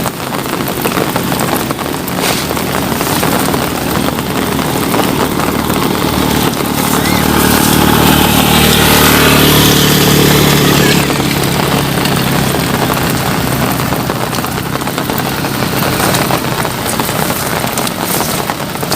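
Steady rain hiss, with a motor vehicle driving past: its engine grows louder toward the middle and fades away again.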